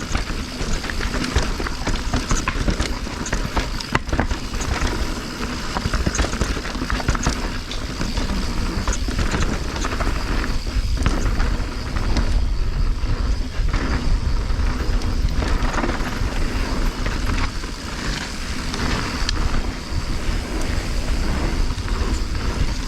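Mountain bike descending a rough, rocky downhill trail: tyres running over rock and dirt and the bike rattling with many small knocks over the bumps, with wind buffeting the microphone as a steady low rumble.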